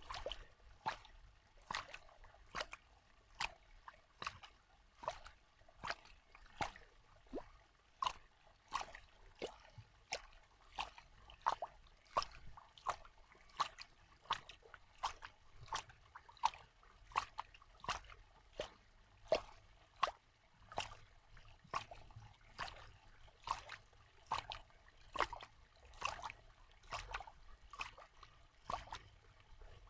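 Water dripping: single drops plopping into water at a steady pace of about two a second.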